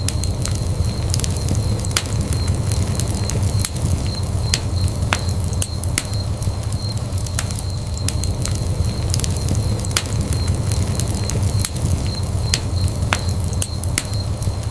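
Wood fire crackling in a fireplace: irregular sharp pops and snaps, several a second, over a low rumble of burning, with a faint steady high tone underneath.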